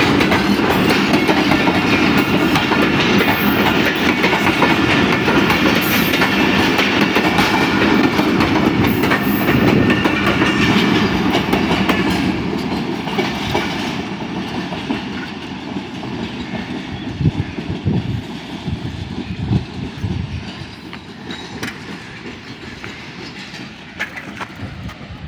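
Pakistan Railways Shalimar Express passenger coaches running through at speed close by, with a loud rumble and wheels clattering over the rail joints. After about twelve seconds the last coach passes and the sound fades away, leaving scattered wheel clicks and knocks.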